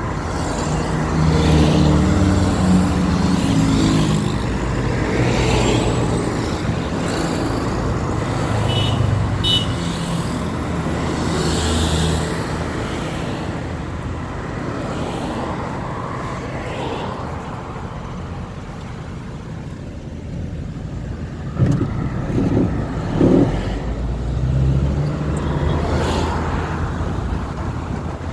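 City road traffic: car and truck engines running and vehicles passing, the engine sound swelling and fading. A few sharp knocks come about three quarters of the way through.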